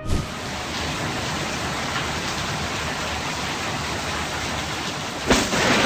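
Steady hiss of heavy rain, broken about five seconds in by a sudden loud crack of thunder that goes on rumbling.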